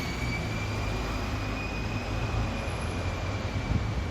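A vehicle running with a deep, steady low rumble and a thin, steady high-pitched whine over it.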